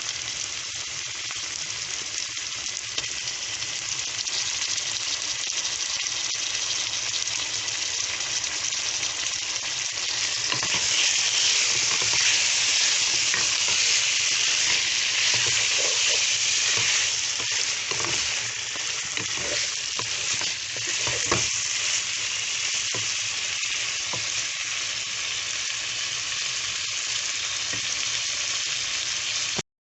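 Hilsa fish roe, onion and freshly added chopped potato frying in hot oil in a pan, sizzling steadily while being stirred, with scattered light knocks of the stirring utensil on the pan. The sizzle grows louder for several seconds in the middle and cuts off suddenly just before the end.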